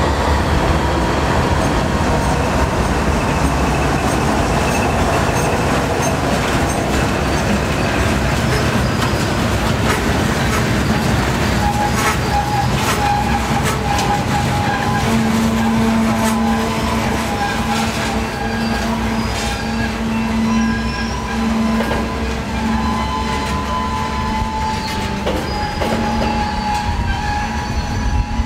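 A CN freight train rolling past at close range: a diesel-electric locomotive's heavy low rumble at first, then the steady rush of freight cars with clicks of wheels over the rails. A steady metallic wheel squeal sets in about twelve seconds in and carries on.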